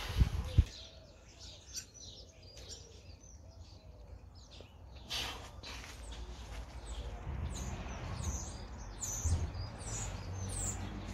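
Small birds chirping in the background, with a run of quick high chirps in the second half. A few low thumps come right at the start.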